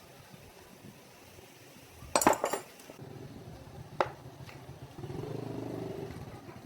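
Metal parts or tools clinking and clattering together in a quick cluster, then a single sharp metallic tap. A low steady hum starts partway through and grows louder near the end.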